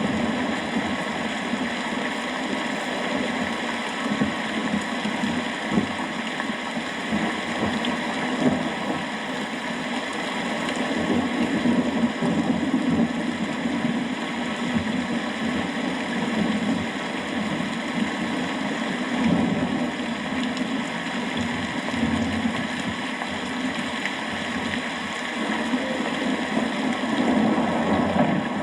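Steady rain falling, a continuous even hiss of drops with no distinct thunderclap.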